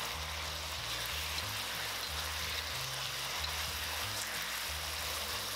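Rice noodles and sauce sizzling steadily in a hot wok over high heat as they are stir-fried.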